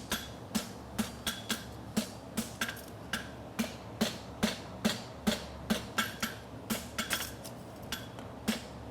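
Hand hammer striking hot steel on an anvil at about three blows a second, each blow ringing briefly: the farrier forge-welding the bar of a draft bar shoe.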